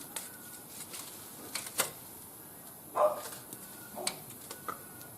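Wood fire crackling in a barbecue grill, with scattered sharp pops and snaps. A brief louder sound comes about three seconds in.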